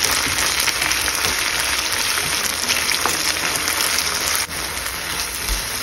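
Chopped bell peppers, onion and tomato paste sizzling in hot oil in a pan as they are stirred with a wooden spatula: a steady hiss that drops slightly about two-thirds of the way through.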